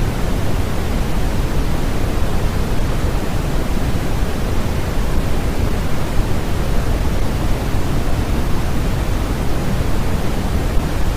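Steady generated noise, an even, unchanging hiss weighted toward the low end like pink noise.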